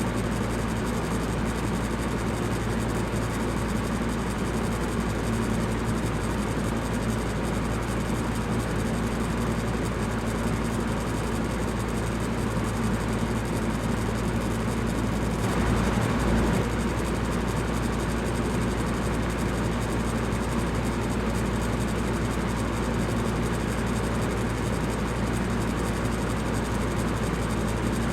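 Electric fan running steadily: an even, airy whoosh over a low hum, with a brief swell about halfway through.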